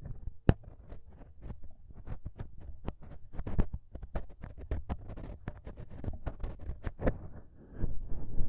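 Ear pick scraping and scratching in an ear, close-miked: a quick, irregular run of crisp scratchy clicks with a dull rumble between them.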